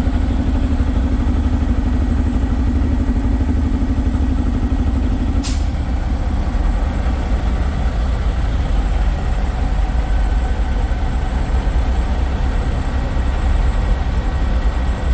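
Semi truck diesel engines idling, a steady low rumble. A second, higher hum stops suddenly about five and a half seconds in, with a brief sharp click.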